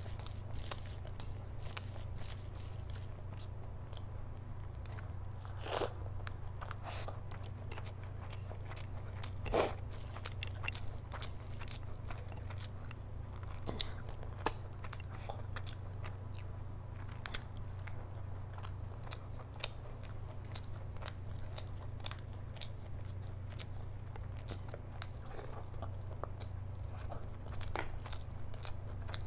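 Close-miked mouth sounds of someone eating curry-soaked rice and mutton by hand: a continual run of short, wet chewing and lip-smacking clicks, a few louder than the rest, over a steady low hum.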